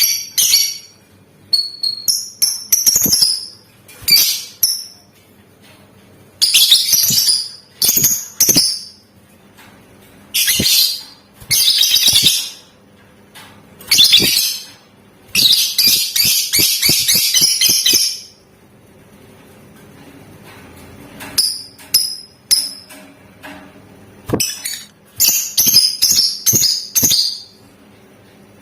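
Lovebird calling in repeated shrill bursts of chatter, each lasting about half a second to a second. About halfway through comes one longer unbroken trill of about two and a half seconds, the 'ngekek' song that lovebird keepers prize.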